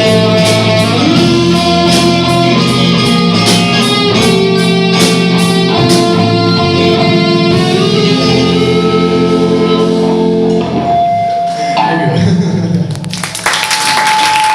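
Live band playing a guitar-led instrumental ending, with held chords that stop about twelve seconds in. The audience then breaks into clapping.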